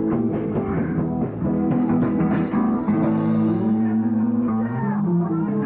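Live rock band's guitars and bass playing held notes and chords, with no singing.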